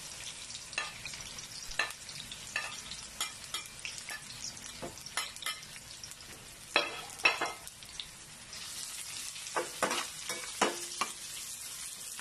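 Sliced onions and minced garlic sizzling in hot oil in a metal frying pan, with repeated sharp clinks and scrapes of a spoon and spatula against the pan as the garlic is added and stirred. The sizzle gets louder about two-thirds of the way in.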